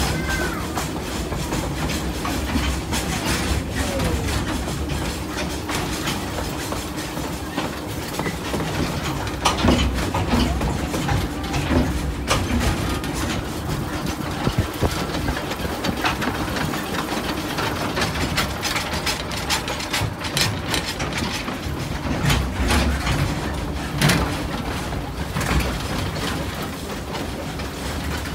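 Narrow-gauge train heard on board while under way: a steady running rumble with irregular clicks and knocks from the wheels and coaches, a few sharper knocks among them.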